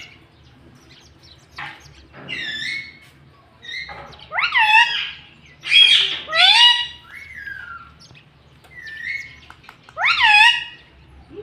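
Pet rose-ringed parakeet (Indian ringneck) calling: a run of short, sharp calls that sweep up and down in pitch, with short pauses between them, loudest about six and ten seconds in.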